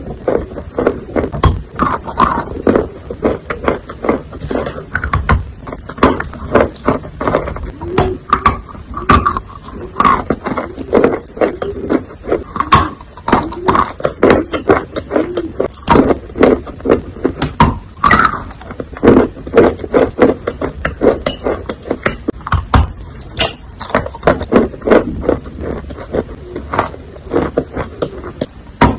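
A person chewing bites of wet chalk: a dense run of crackly crunches and moist mouth sounds, several a second, with no pauses.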